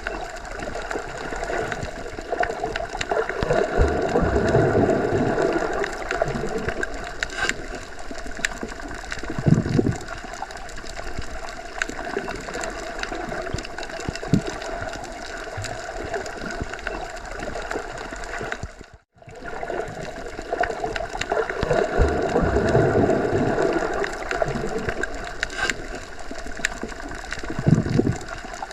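Muffled underwater ambience, as heard when submerged in a pool or lake: a steady rushing hiss with slow swelling surges and two low thumps. It cuts out for a moment just past halfway, then the same pattern comes round again.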